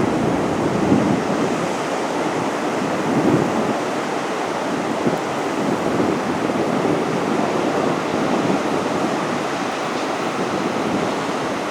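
Heavy ocean surf rolling and breaking on the beach in a steady wash, with some wind on the microphone.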